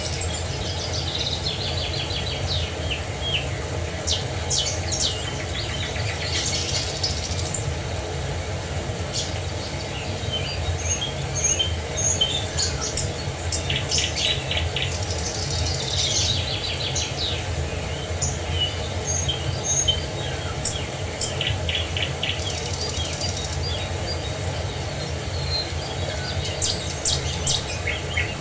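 Several birds singing and chirping, with short trills and rapid series of calls, over a steady low rush of falling water.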